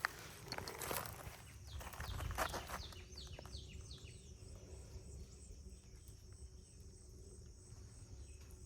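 A bird calling a quick run of about six falling whistled notes, over a steady high insect drone. A few rustling, crunching sounds come in the first few seconds.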